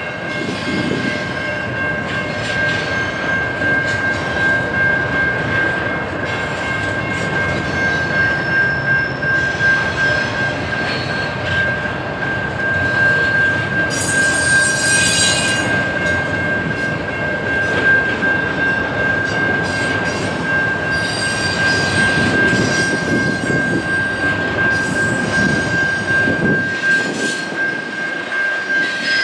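Train rolling past with a steady rumble of wheels on rail and one high, steady wheel squeal held throughout, plus a brief sharper screech about halfway through.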